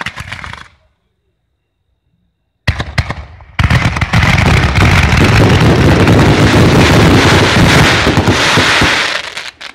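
Fireworks finale: crackling bursts die away in the first half-second, then after about two seconds of silence a few sharp bangs start a dense, continuous barrage of overlapping booms and crackle that lasts about six seconds and thins out near the end.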